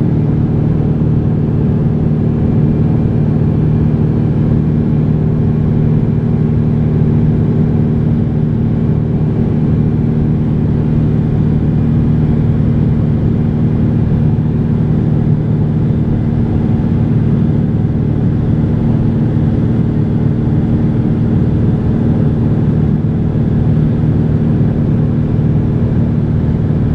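Cessna 182's piston engine and propeller running at a steady drone, holding one even pitch throughout.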